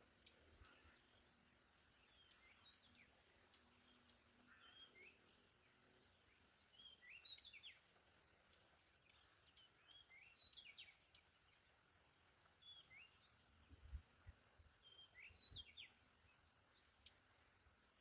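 Faint, scattered short chirps of wild birds, each a quick upward sweep, over a steady high-pitched whine. A couple of low thumps come near the end.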